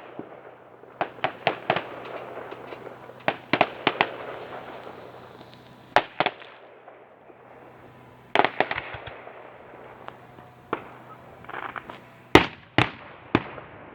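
Fireworks display: shells bursting in irregular clusters of sharp bangs, each followed by a crackling, fizzing trail, with three of the loudest bangs near the end.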